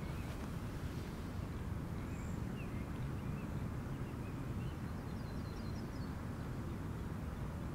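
Faint, scattered bird chirps, with a quick run of high ticks about five seconds in, over a steady low outdoor rumble.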